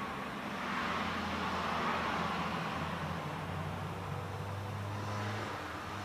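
Road traffic: a steady rush of tyre noise with a low engine hum, swelling about a second in and shifting in pitch partway through.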